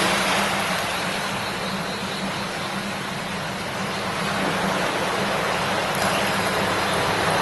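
River babbling: a steady rush of flowing water that eases a little in the middle and swells again near the end.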